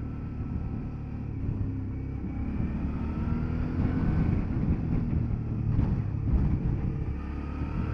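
Motorcycle engine running under way beneath a dense low rumble, its pitch rising around the middle and again near the end as it accelerates.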